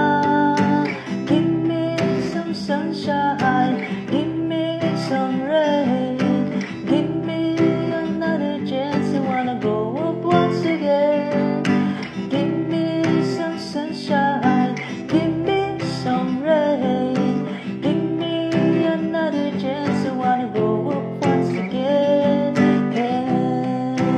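Acoustic guitar playing steadily, with strummed chords and a picked melody line.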